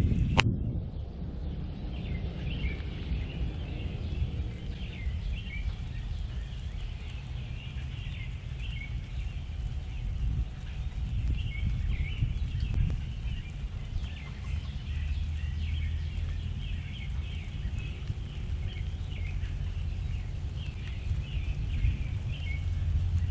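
Small songbirds chirping and calling over and over in short notes, over a steady low background rumble. A sharp click sounds about half a second in.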